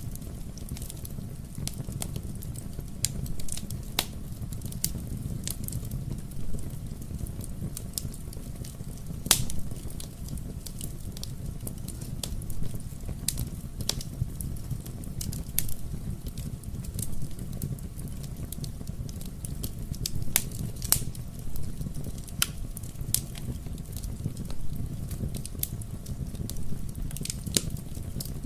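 Fireplace fire crackling: a steady low rumble of flames with irregular sharp pops and snaps. One pop about a third of the way in is louder than the rest.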